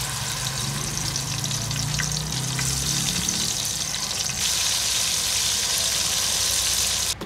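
Blended pepper paste spooned into hot oil in an aluminium pot, sizzling hard as it fries. The sizzle grows louder about four seconds in as more paste goes in, and cuts off suddenly near the end.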